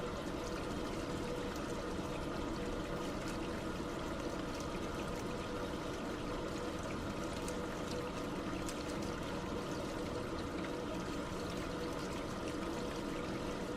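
Running water pouring in a steady, unbroken flow, with a faint steady hum in it.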